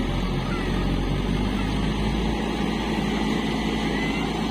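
Heavy diesel engine running steadily at a constant speed, a low, even drone with no revving.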